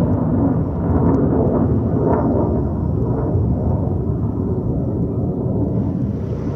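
Military jet flying low overhead: a loud, steady, deep rumble.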